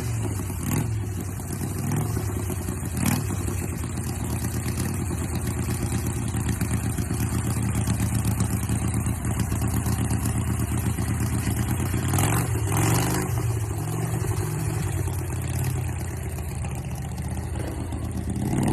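Chopper motorcycle engine running steadily, with a brief rev and fall about two-thirds of the way through.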